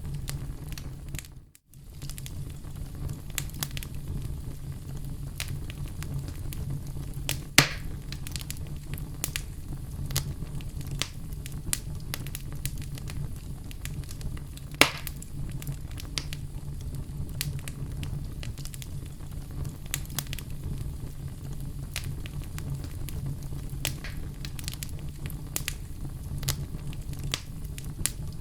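Oak logs burning in a fireplace: a steady low rumble with constant scattered crackling and two sharp, loud pops, about seven and a half and fifteen seconds in. About a second and a half in, the sound drops out for a moment.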